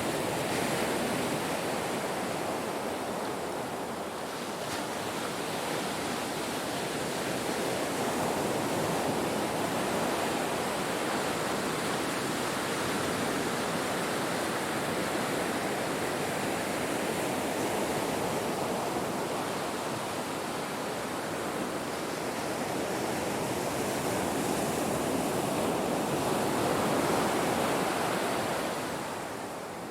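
Ocean surf washing onto a shore: a continuous rush of breaking waves that slowly swells and eases over several seconds, dipping briefly near the end.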